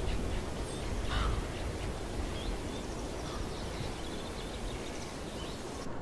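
Outdoor ambience: birds calling now and then over a steady low rumble and hiss.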